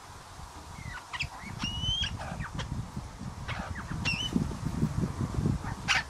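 Birds calling: short sharp chips and squawks with clear whistled notes, one about two seconds in and another near four seconds, over a low, uneven rumbling.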